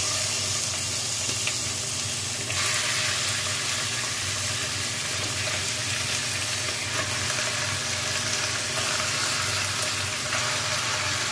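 Raw chicken wings sizzling as they go into a pot of sautéed garlic, onion and ginger: a steady frying hiss that gets sharper about two and a half seconds in.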